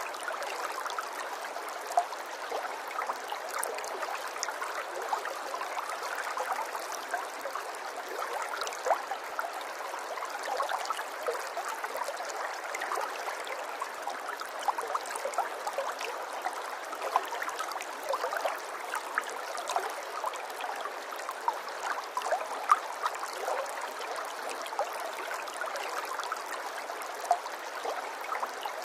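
Running water trickling and gurgling steadily, a small stream or brook with many small splashes and droplet ticks.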